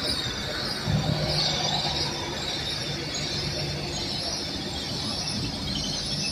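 A GWR Intercity Express Train running slowly into a platform with a steady high squeal from the running gear as it slows. From about a second in, a low steady hum from the train lasts for a few seconds.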